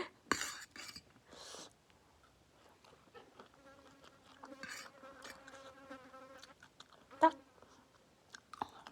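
A fly buzzing close to the microphone for about three and a half seconds midway, amid the eating noises of a noodle mukbang. A single sharp clink comes near the end.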